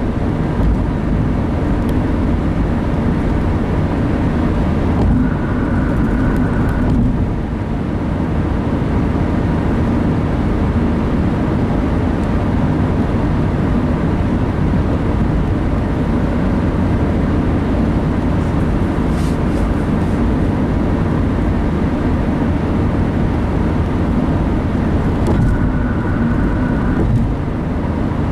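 Steady engine and tyre noise inside a moving car's cabin, with a brief high tone twice.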